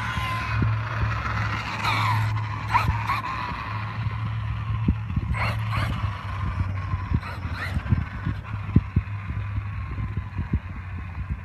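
Electric RC desert truck being driven, its motor whining up and down in pitch as it speeds up and slows, with scattered clicks and knocks from the truck over rough ground and a steady low hum underneath.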